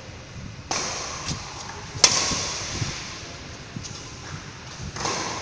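Billiard shot: sharp clacks of cue and pool balls striking, the loudest about two seconds in, with a further knock near the end.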